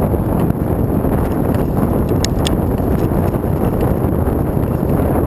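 Wind buffeting the microphone while riding, a steady rumbling rush, with two or three short clicks a little over two seconds in.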